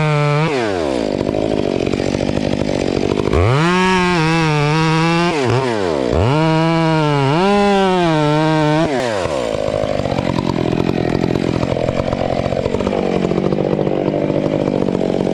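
Chainsaw engine running at full throttle, falling off and climbing back up: three high-revving bursts in the first nine seconds, then a rougher, unsteady running without a clear pitch for the rest.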